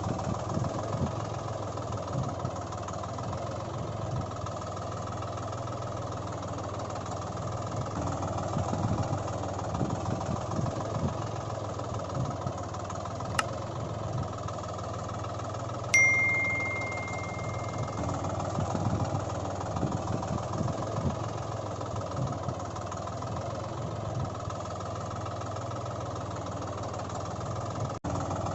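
Steady engine-like running sound, with a click about halfway through. A little later there is one sharp ding that rings on for a couple of seconds.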